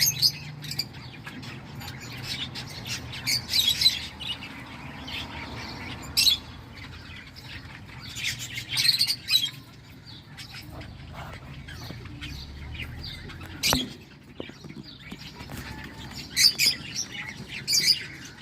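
Cockatiels chirping in short, raspy bursts every few seconds, with a sharp click about two-thirds of the way through.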